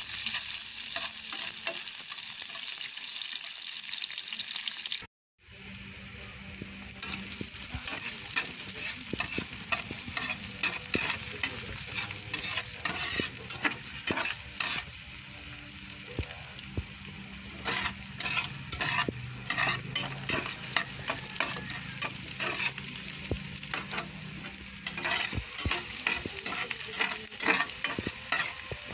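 Chopped garlic and onion sizzling in hot oil in a frying pan, with a spatula scraping and tapping against the pan as it is stirred. The sound cuts out for a moment about five seconds in.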